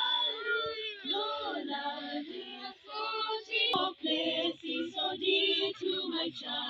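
Several voices singing a Christian hymn together in phrases, with a brief sharp click about halfway through.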